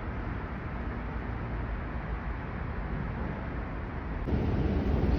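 Riyadh Metro train running, a steady rumble heard from inside the car that grows louder about four seconds in.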